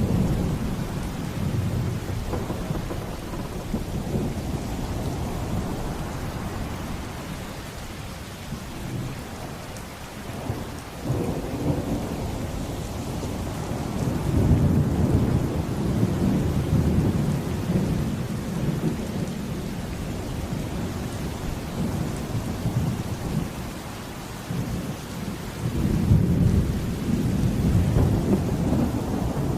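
Steady rain with rolling thunder. Deep rumbles swell about halfway through and again near the end.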